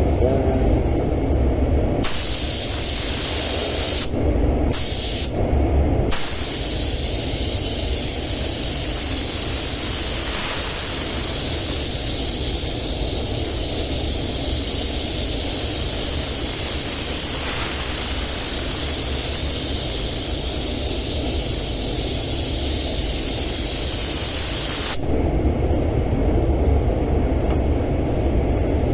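Paint spray gun hissing as the trigger is held and compressed air atomises the paint. There are two short breaks a few seconds in, then a long steady pass that stops near the end. A steady low rumble runs underneath.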